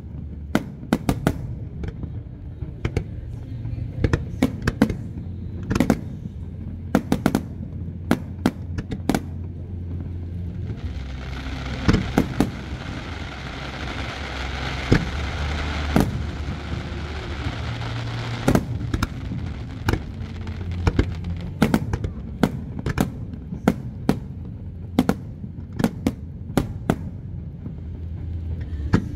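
Aerial firework shells bursting overhead, a rapid string of sharp bangs. A dense hiss fills about seven seconds in the middle.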